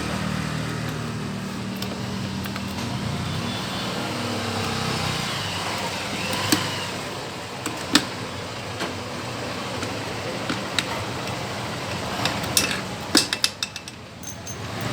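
Sharp metallic clinks of tools and small parts being handled on a motorcycle engine under repair: single clinks about six and a half and eight seconds in, then a quick cluster near the end. Under them runs a steady low vehicle hum that fades after the first few seconds.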